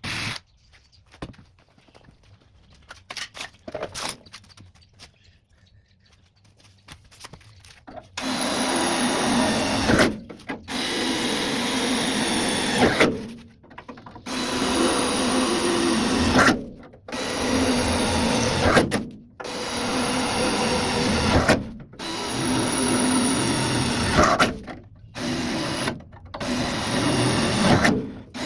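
A handheld electric power tool running in about eight bursts of one to three seconds with short pauses between them, starting about eight seconds in after some light clicks and knocks.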